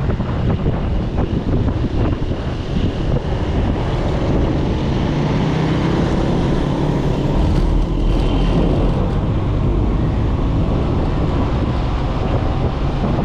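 Wind buffeting the microphone over the steady rumble of a moving vehicle and road traffic.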